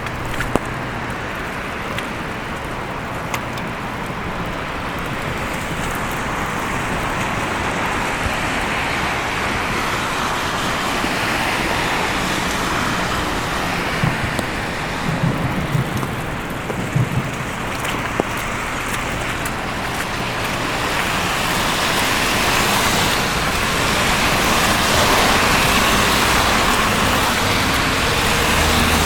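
Street traffic: cars passing on a snowy city road with a steady tyre-and-engine hiss, one vehicle swelling louder near the end. A few short low thumps come about halfway through.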